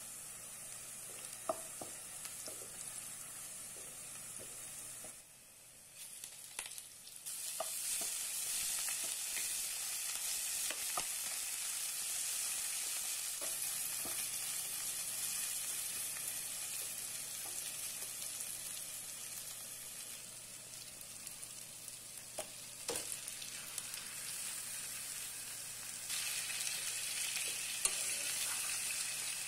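Sliced onions sizzling as they fry in oil in a nonstick wok, with a spoon stirring them and tapping the pan a few times. The sizzle grows louder about a quarter of the way in, and again near the end, when pieces of marinated chicken are frying and being stirred with the onions.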